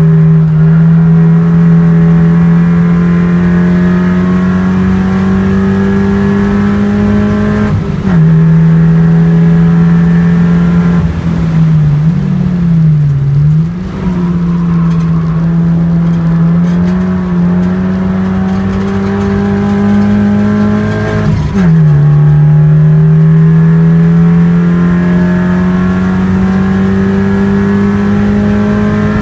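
Race car engine heard from inside the cabin under hard acceleration on a circuit, its pitch climbing steadily through each gear and dropping sharply at upshifts about 8 seconds in, about 21 seconds in and right at the end. Around 12 to 14 seconds in the engine note wavers and dips as the throttle is eased for a corner before it pulls again.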